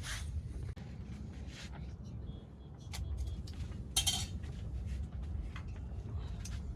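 Metal pots and utensils clinking and knocking as they are handled: several separate clinks, the loudest about four seconds in with a short ring, over a low steady rumble.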